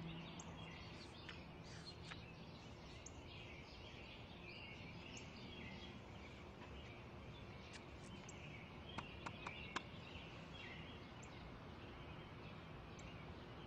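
Faint garden ambience with small birds chirping on and off, and a few quick soft clicks about nine seconds in.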